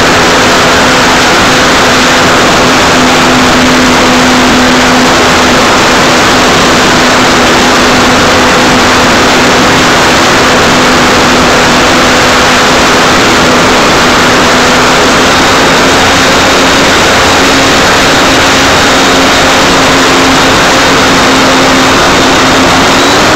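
Electric motor and propeller of an Art-Tech Cessna 182 RC model plane, heard from a camera on its nose: a loud steady drone with rushing air noise, its pitch stepping up just before the end.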